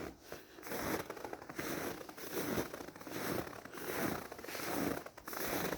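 Footsteps crunching in frozen snow at a steady walking pace, about one crunchy step a second.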